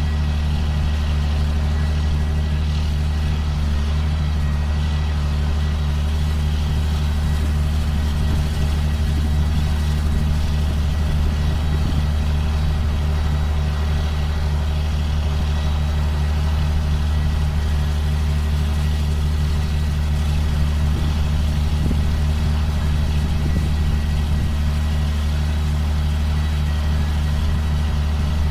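2005 John Deere self-propelled sprayer's engine running steadily, a low, even drone that doesn't change.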